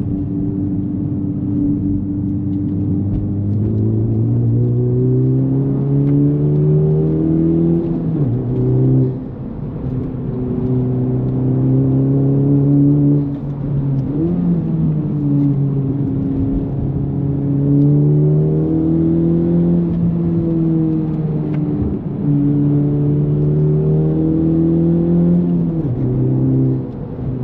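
Honda Civic Type R FL5's turbocharged 2.0-litre four-cylinder engine through an AWE Touring cat-back exhaust, heard from inside the cabin while accelerating through the gears: the engine pitch climbs and drops back at each shift, several times.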